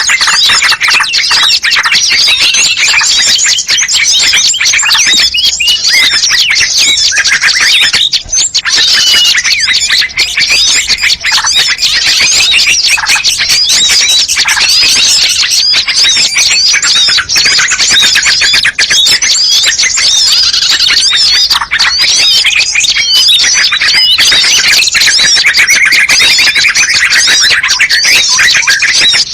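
Dense, unbroken chorus of many small songbirds chirping and twittering over one another, loud and steady: a bird-trapping lure recording (suara pikat) that mixes the calls of many species.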